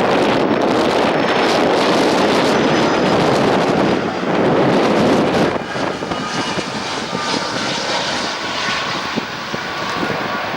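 Boeing 757-200 jet airliner's engines during its landing: a loud rushing engine noise that drops away about five and a half seconds in, leaving a quieter rush with a faint, steady engine whine.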